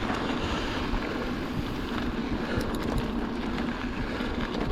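Mountain bike rolling along a dirt trail: a steady rush of wind buffeting the microphone with tyre and trail noise, and a few light clicks and rattles about two and a half to three seconds in.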